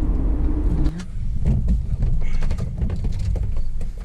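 Van's engine and road noise, a steady low rumble that drops sharply about a second in, followed by scattered clicks and knocks.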